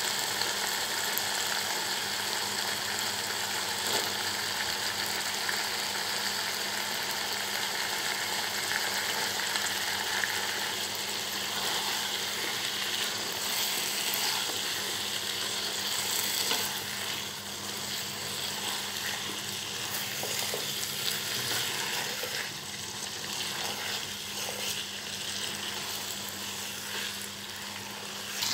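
Beef keema and raw potato chunks sizzling steadily in oil in a non-stick wok while being stirred with a silicone spatula.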